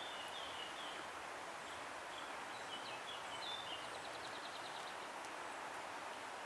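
Small birds chirping, a few short calls in the first four seconds and a quick rapid trill about four seconds in, over a steady outdoor background hiss.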